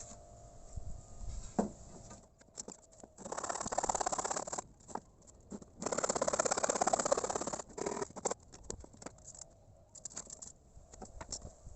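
Pallet wood being worked by hand: two long rasping noises, about a second and a half and then two seconds, among scattered small clicks and knocks.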